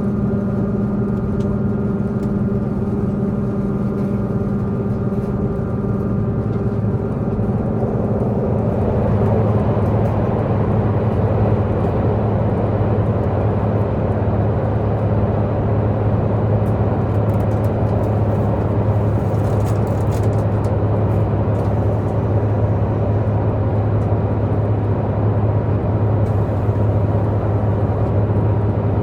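Diesel multiple unit's underfloor diesel engine running at speed, with wheel and rail noise. About eight seconds in, the steady engine tones give way to a louder, rougher rumble.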